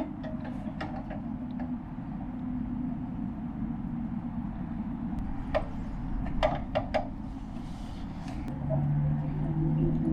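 Steady vehicle and engine noise with several sharp clicks around the middle, and a steady low hum that comes in near the end.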